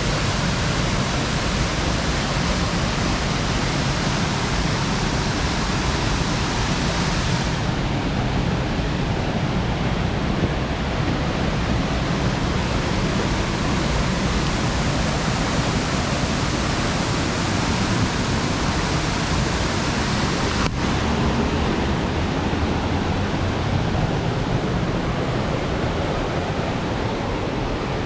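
Waterfall rushing steadily: a dense, unbroken roar of falling water.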